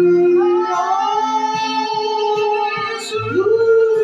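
A song sung over plucked guitar accompaniment: the voice holds long notes, sliding up to a higher one about three seconds in, while the guitar keeps up an even plucked pattern beneath.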